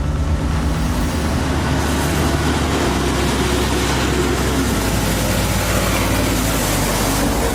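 A heavy vehicle's engine running loudly and steadily, with a dense rushing noise over a low drone.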